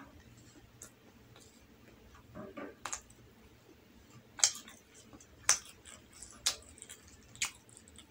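Close-up eating sounds: a mouthful of rolled omelette being chewed, with a few soft squishy sounds and then sharp wet mouth clicks about once a second in the second half.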